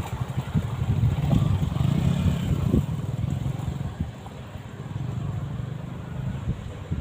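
Motor vehicle traffic crossing the bridge: a low engine sound swells about a second in and eases off after about three seconds, then runs on more quietly.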